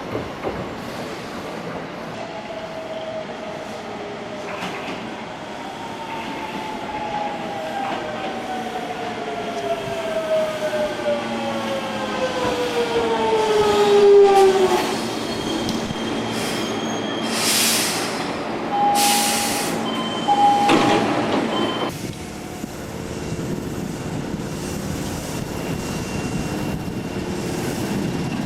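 Hankyu electric train pulling into a station platform: its motor whine falls steadily in pitch as it slows, then come a few short loud hisses and brief squealing tones. After that the sound drops to a steadier, quieter rumble.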